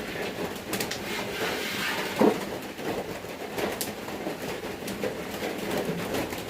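Rain drumming on a corrugated iron-sheet roof, a dense steady patter with scattered clicks; a single louder knock comes about two seconds in.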